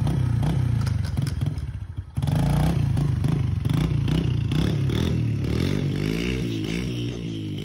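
Yamaha TT-R dirt bike's single-cylinder four-stroke engine revving, its pitch rising and falling repeatedly. A sudden break comes about two seconds in, and the engine grows fainter near the end.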